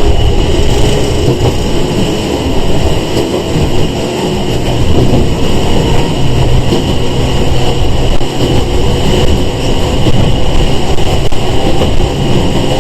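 Sangi Railway 101-series electric train running, heard from inside the passenger car: a loud, steady rumble of wheels, motors and body with a constant high hum above it.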